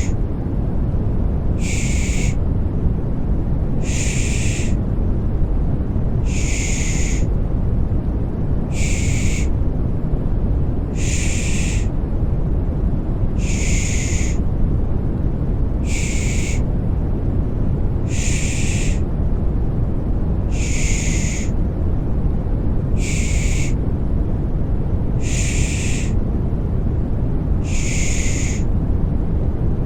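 Rhythmic 'shh' shushing for settling a baby to sleep: short hissing shushes, one roughly every two seconds, over a steady deep white noise.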